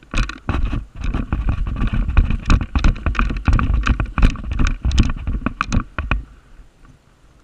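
Handling noise on a camera: irregular knocks and rubbing against the body and microphone, dropping away about six seconds in.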